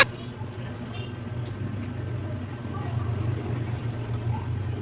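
A steady low hum under a faint, even background noise.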